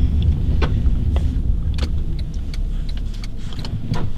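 Car driving, heard from inside the cabin: a steady low engine and road rumble, with scattered light clicks and rustles.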